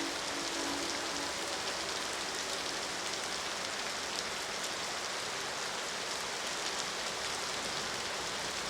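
Steady rain falling, with a train horn sounding a held chord that cuts off about a second in.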